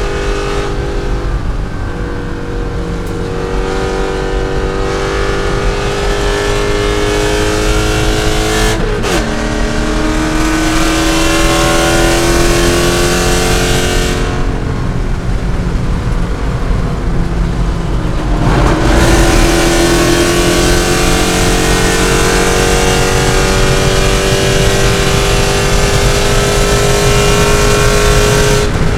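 C5 Corvette's V8 engine under hard racing acceleration, its pitch climbing steadily through the revs. About nine seconds in it drops sharply at an upshift, then it eases off for a few seconds before pulling up through the revs again.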